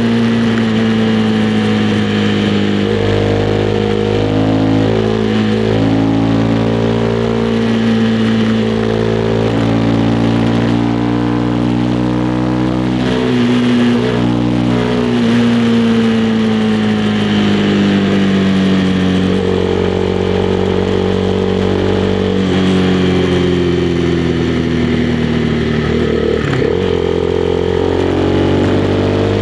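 Honda CB300R's single-cylinder engine running under way, its pitch drifting gently up and down as the throttle and road speed change.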